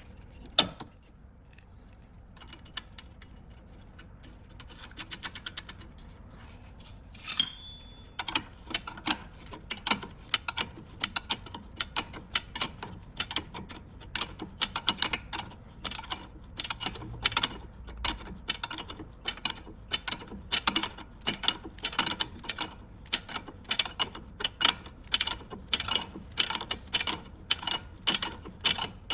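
Hand ratchet wrench clicking in a steady run of about two to three clicks a second as a nut is turned. A sharp metallic clink comes about seven seconds in, just before the clicking starts.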